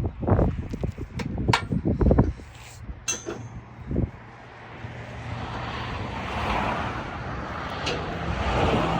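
A vehicle running, with irregular low buffeting for the first couple of seconds, then a steady low hum and a hiss that swells up after about five seconds.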